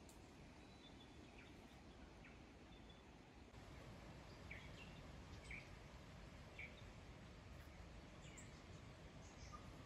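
Quiet outdoor ambience with faint, short bird chirps scattered through it, a few more of them in the second half.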